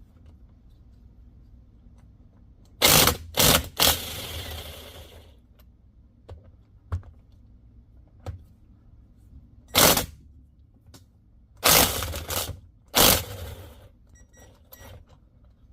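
Tools knocking and clattering on metal parts of a Polaris 850 engine being stripped for the number 2 piston: a quick group of three sharp, loud hits about three seconds in, followed by a short rattle, then several more single hits later on.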